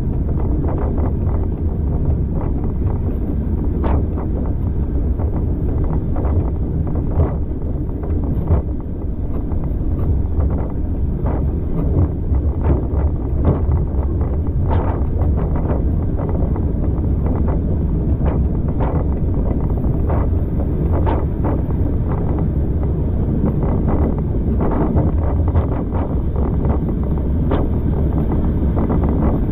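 Passenger train carriage running along the track: a steady low rumble with wind buffeting the microphone, and irregular sharp clicks and knocks.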